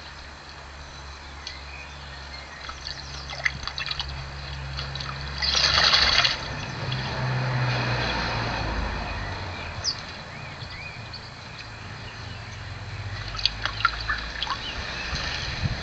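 Blackbird bathing in a garden bird bath, splashing water, with one loud burst of splashing about six seconds in. A few short bird chirps and a low steady hum are also heard.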